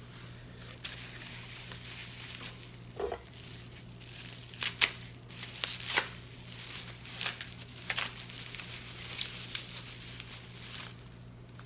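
Packaging crinkling and tearing as a wrapped chess piece is unpacked by hand, in irregular sharp crackles, the loudest about five and six seconds in. A steady low hum runs underneath.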